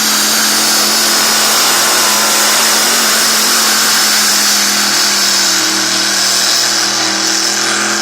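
Tractor-pull vehicle's engine running loud and steady under load, its pitch creeping up slightly near the end.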